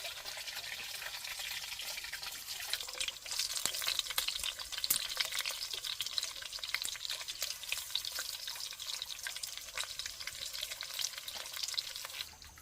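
Food frying in hot oil in a pan: a steady sizzle with many small crackles and pops, growing louder about three seconds in and dropping away just before the end.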